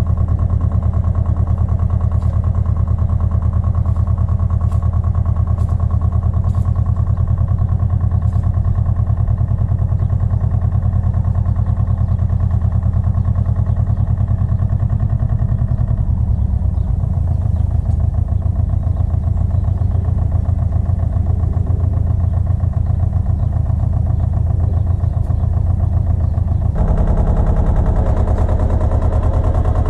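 Pasquali 980 EX two-wheel walking tractor's engine running steadily under work. Its note shifts about halfway through, and again, a little louder, near the end.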